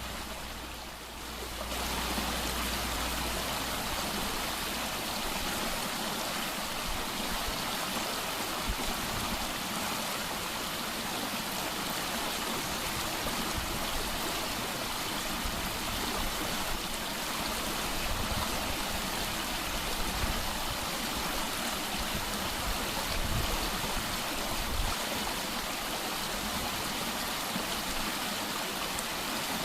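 Mountain valley stream gushing steadily over rocks, a continuous rush of water.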